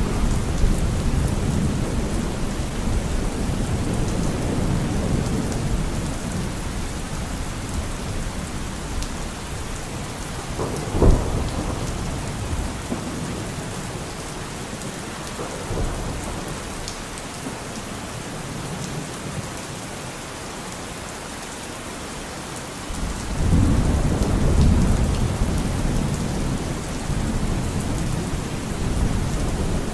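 Steady rainfall with thunder rolling through it: a low rumble that fades over the first several seconds, a short sharp crack about eleven seconds in, and a new loud rumble that breaks in about seven seconds before the end.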